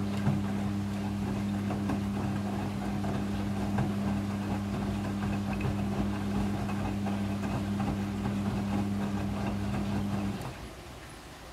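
Midea front-loading washing machine running mid-cycle: a steady low hum with a crackle of water and tumbling load over it, which cuts off about ten seconds in.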